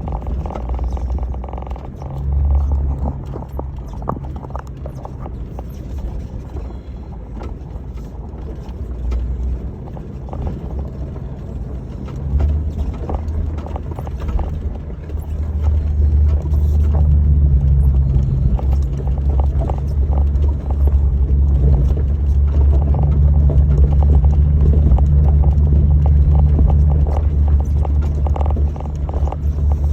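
1996 Jeep Grand Cherokee ZJ's 5.2-litre V8 running at low speed on a rough dirt trail, with constant rattling and knocking as the vehicle bounces over the ground. The engine gets louder from about halfway through.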